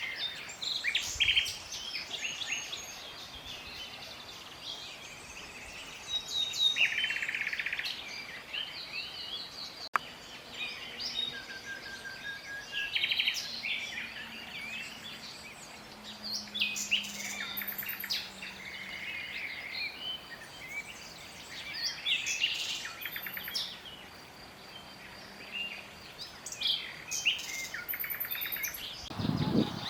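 Common nightingale singing: a run of varied phrases of rapid trills and repeated notes, separated by short pauses. A short low thud sounds just before the end.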